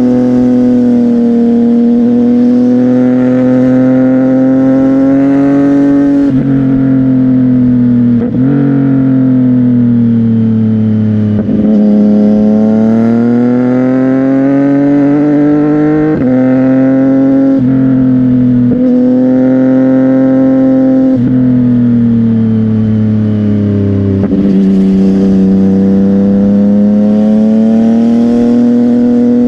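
CFMOTO 675NK inline-three engine through a Burnout titanium exhaust, running under way as the motorcycle is ridden. The engine note rises and falls with several brief breaks at gear changes.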